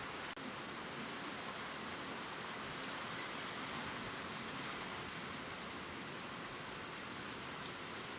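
Steady gentle rain pattering on leaves, an even hiss dotted with faint drop ticks, with a momentary dropout about a third of a second in.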